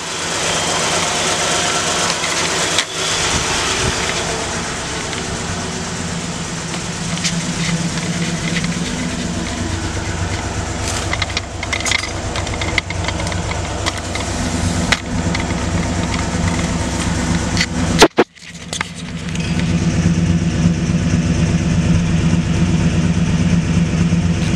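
1967 Ford Galaxie's 289 small-block V8, carbureted, idling steadily on a cold start, heard at the exhaust. A single sharp click comes about 18 seconds in, and the sound drops out for a moment. After that the engine is louder and fuller.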